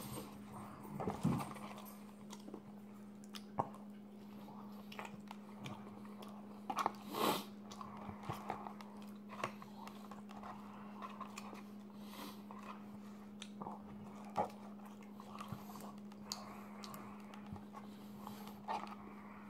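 Close-up mouth sounds of a person chewing food: soft wet clicks and smacks, a few louder ones, the loudest about seven seconds in. A steady low hum runs underneath.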